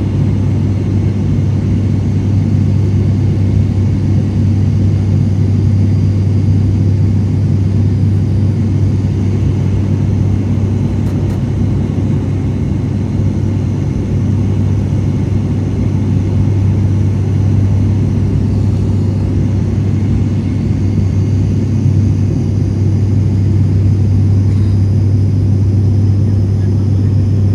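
Cabin noise of an ATR 72 turboprop airliner in flight: a steady, loud, low propeller drone over a constant rush of engine and air noise.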